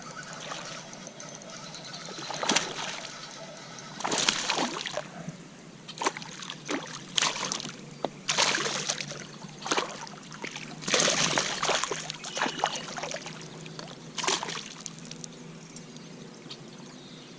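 Water splashing in short, irregular bursts, about eight of them, close to the kayak.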